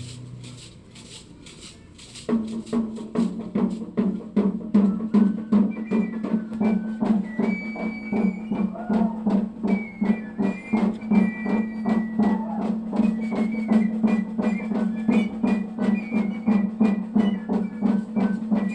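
Music for a sonajera dance: a drum beating a steady, even rhythm starts about two seconds in, with a higher melody line joining over it a few seconds later.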